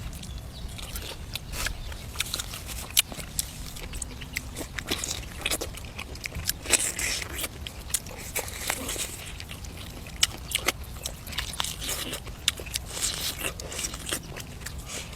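A person eating braised duck and vegetables close to the microphone: biting and chewing with irregular crunches and sharp clicks.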